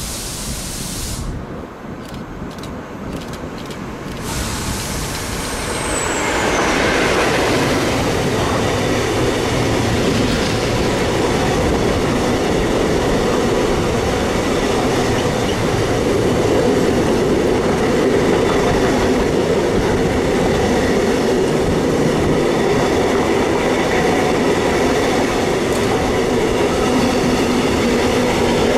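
Container freight train running through a station: the sound builds over the first six seconds as it arrives, then holds as the steady rumble and rail clatter of the container wagons rolling past.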